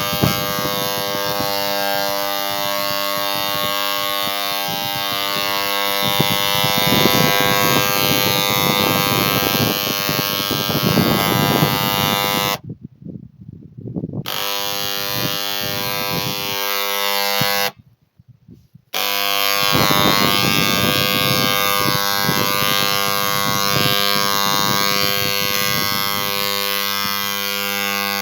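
A motor-driven machine running with a steady buzzing hum at one unchanging pitch. It cuts out abruptly twice for a second or so.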